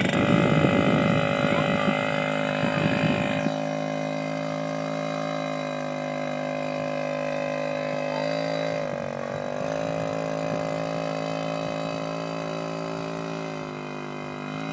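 Kawasaki KDX50's small two-stroke engine running at a steady pitch, louder and rougher for the first three seconds or so, then evening out, with a brief dip in pitch about nine seconds in and another near the end.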